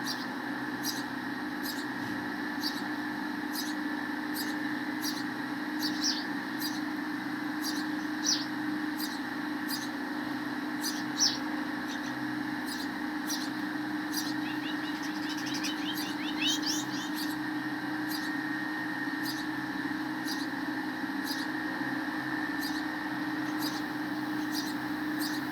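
Sparrows chirping: short, high chirps repeated about twice a second, with a quick trill of rapid notes about fifteen seconds in, over a steady background hum.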